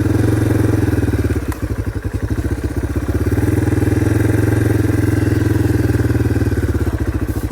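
Dirt bike engine pulling at low speed and being revved up twice, with a dip in between, while the rider manoeuvres the bike around on a tight, wet trail.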